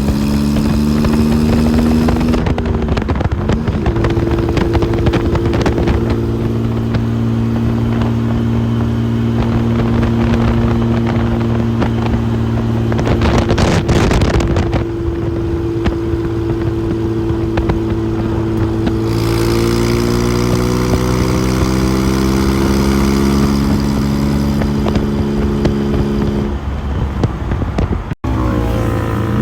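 Supercharged 3.8-litre V6 of a Brunton Stalker Lotus Seven replica running under way, its note holding mostly steady. There is a short rush of noise about halfway through, and the pitch shifts around two-thirds of the way in. The sound drops out for a split second near the end.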